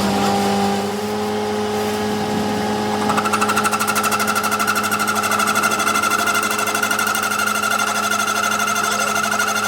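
A powered workshop machine running steadily with a low hum; about three seconds in a higher whine and a fast, even rattling pulse join in and keep on.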